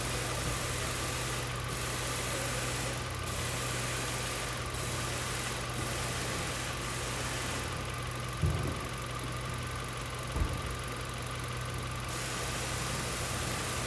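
2007 Mazda 3's four-cylinder engine idling unevenly, misfiring on cylinder 1 because of a failing ignition coil that gives no spark. Two brief thumps, about eight and a half seconds in and near ten seconds.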